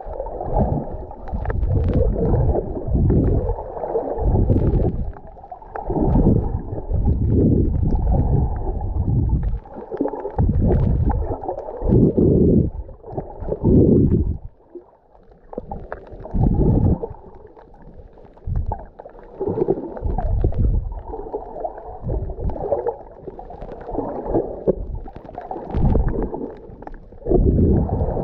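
Muffled sea water sloshing and gurgling around the camera, in uneven surges every second or two with short lulls.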